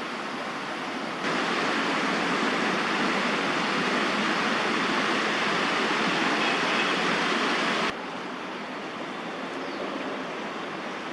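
Steady roar of distant city traffic with no distinct events. It jumps abruptly louder about a second in and drops back just as abruptly about eight seconds in.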